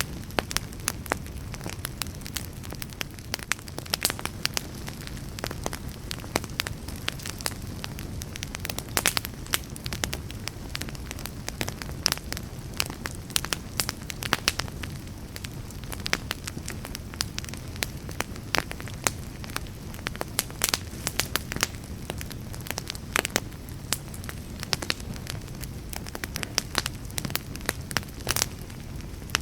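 Wood fire burning, with a steady low rumble of flames and frequent sharp, irregular crackles and pops.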